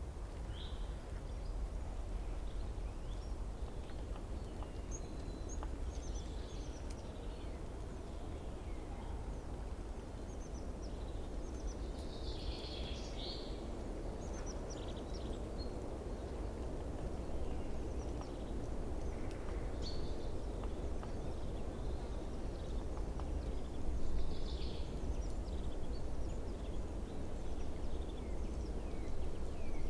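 Wild birds chirping and calling now and then, in short scattered notes and trills, over a steady low outdoor background rumble.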